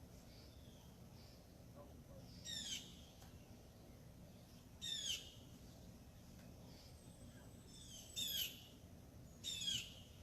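A bird calling four times outdoors, each a short call that falls in pitch, the last two close together near the end.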